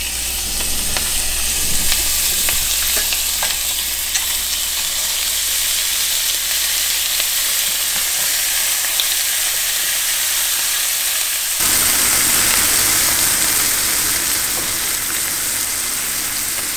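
Mantis shrimp frying in butter in a stainless steel pan: a steady sizzle with scattered small pops and crackles, growing fuller and a little louder about twelve seconds in.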